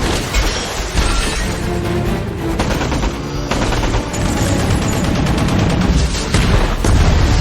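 Movie action-scene sound mix: rapid automatic gunfire in dense volleys over a driving score, the volleys loudest near the end.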